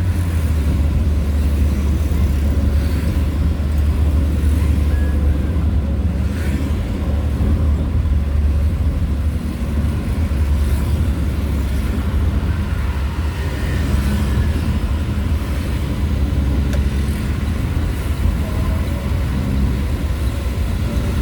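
Steady low engine and road drone of a vehicle driving along.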